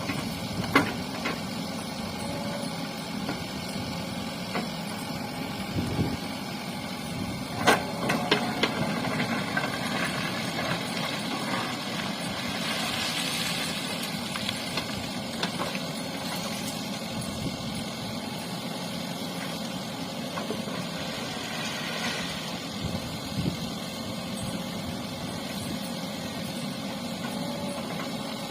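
JCB backhoe loader's diesel engine running steadily, with sharp knocks about a second in and again near eight seconds in.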